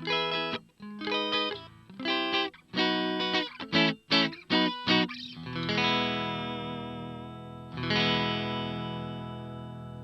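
Jolana Tornado electric guitar played in short, choppy chords, then two chords struck and left to ring out, the second about eight seconds in and fading slowly.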